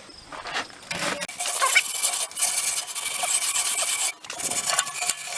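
Wire brush scrubbing the furnace door where the old rope gasket was, scraping off leftover gasket and glue residue. Rapid scratchy strokes start about a second in, with a short break a little after four seconds.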